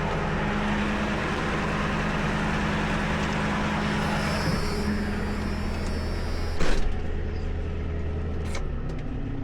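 Truck engine running steadily, with a short sharp burst of noise about seven seconds in; the engine note drops lower near the end.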